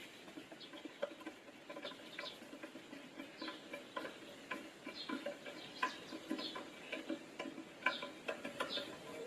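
Light, irregular clicks and small squeaks, a few a second, from a screwdriver and screws being worked on the plastic casing of a NIU 48 V battery pack.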